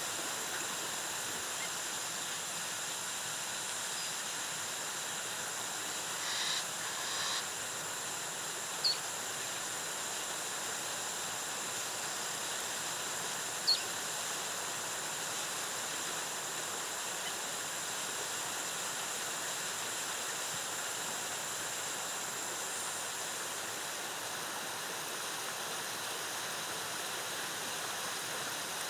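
Waterfall water rushing steadily, with a thin, steady high-pitched tone over it and a few single short chirps.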